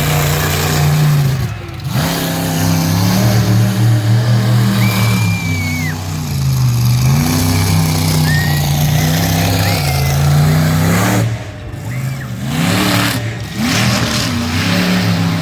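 Monster truck engine revving hard, its pitch rising and falling over and over with the throttle, with two short drops in the sound, one a little under two seconds in and one about twelve seconds in.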